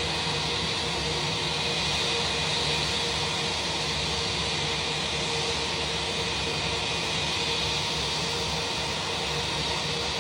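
Airbus A321 jet engines idling with a steady rushing hiss and a high whine as the airliner taxis in to park.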